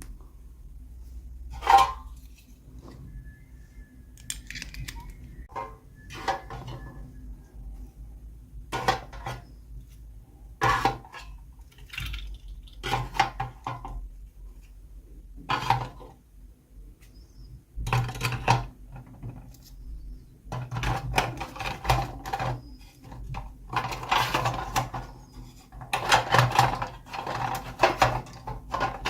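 Hands unboxing small plastic toy dolls: irregular clicks, taps and rustles of packaging and plastic pieces, busier in the second half.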